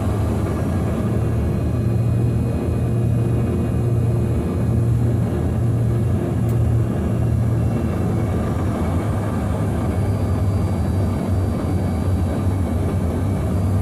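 Steady, loud engine rumble with a low hum, holding even throughout.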